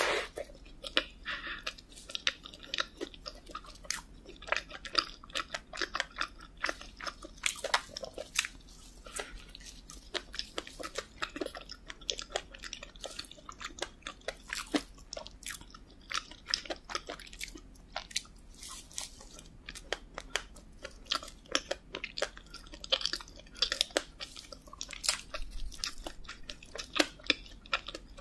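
Close-miked eating of a soft, jam-filled donut: a bite at the start, then chewing with many irregular mouth clicks and smacks.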